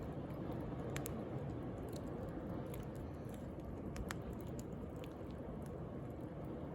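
Wood fire crackling with scattered sharp pops, over the steady low wash of sea waves.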